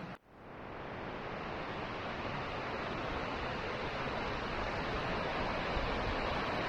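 Steady rushing of water from a waterfall. It cuts out for a moment just after the start, then comes back and slowly grows louder.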